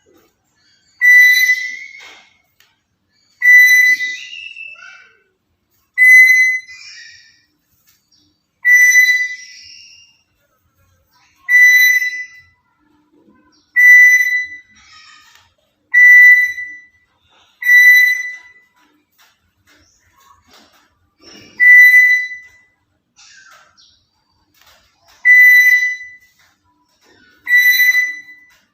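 Black-capped lory giving a short, piercing whistled call about a dozen times, roughly one every two seconds. Each call is a single steady note with a rough, scratchy start.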